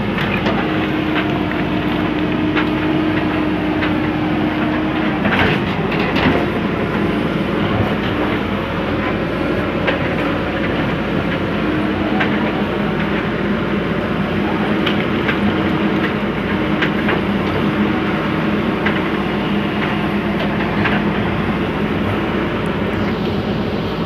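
Diesel engine of a working JCB digger running steadily, its pitch shifting slightly as the load changes, with scattered metallic clicks and knocks.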